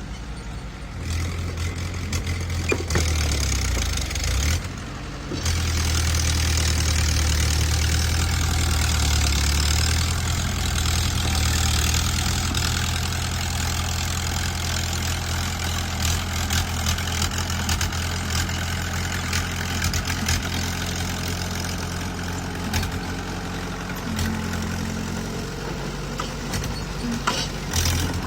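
Bulldozer's diesel engine running steadily, with scattered clanks and rattles over it. The engine note dips briefly about four to five seconds in, then picks back up.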